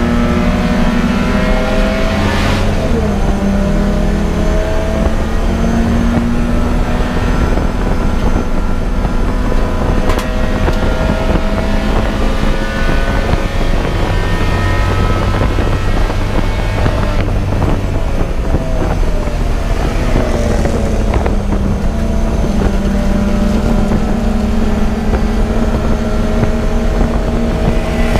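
Race car engine running hard, its pitch climbing and dropping again and again as the car accelerates, shifts and slows, with wind rush on the microphone.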